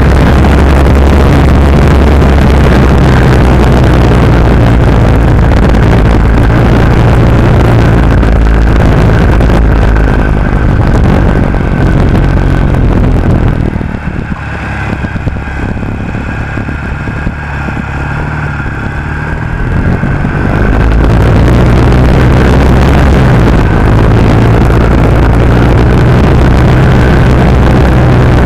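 Norton Commando parallel-twin motorcycle engine running under way. It backs off and gets quieter for several seconds in the middle as the bike goes through a tight bend, then pulls strongly again.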